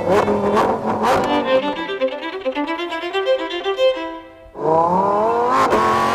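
Solo violin playing a quick run of notes. About four and a half seconds in, a Lamborghini Huracán EVO Spyder's V10 engine accelerates with a rising wail, briefly breaking for a gearshift before climbing again.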